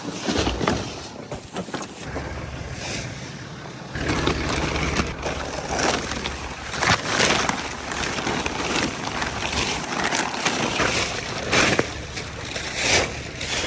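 Wind gusting across the microphone in uneven surges, with crinkling of empty plastic rock-salt bags being gathered up.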